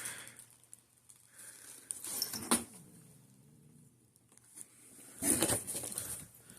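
Light handling noises: scattered soft knocks and rustles, with a louder rustle about two and a half seconds in and a longer one about five seconds in.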